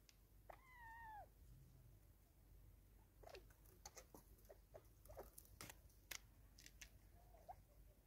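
Faint bird sounds: one drawn-out call about half a second in that falls in pitch at its end, then a scatter of short clicks and chips, and one more short note near the end.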